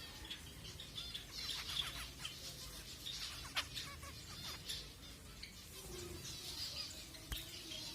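Zebra finches calling, a steady run of short overlapping chirps from several birds, with a couple of sharp clicks among them.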